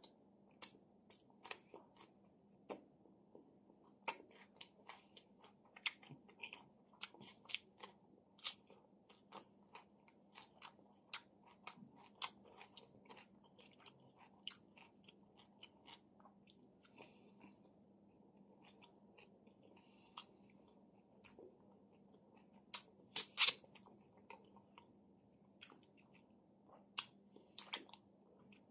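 Close-miked eating sounds: crisp crunching and wet chewing of fresh cucumber and food, in irregular sharp clicks a few times a second, with a louder cluster about 23 seconds in.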